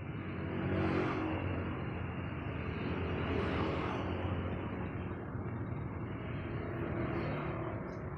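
Road traffic passing: a steady rumble of engine and tyre noise that swells three times, about a second in, midway, and near the end, as vehicles go by.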